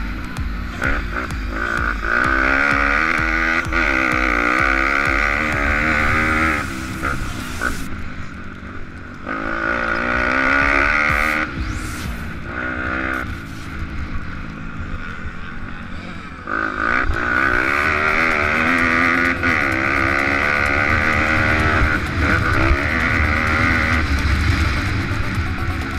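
Pit bike engines revving hard, the pitch climbing and dropping again and again as the bikes accelerate, shift and back off, with short dips about a third and two thirds of the way through.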